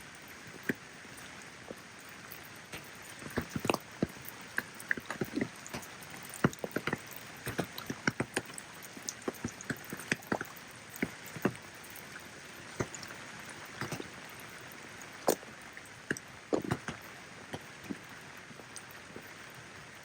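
Steady hiss of falling rain, with many sharp, irregular drops and drips striking close by. The drops come thickest through the middle of the stretch.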